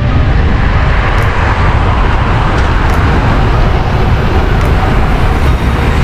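Strong wind buffeting the microphone in a steady low rumble, over the noise of highway traffic.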